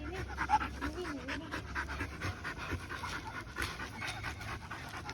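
Dog panting quickly and steadily, with a few soft whines in the first second and a half.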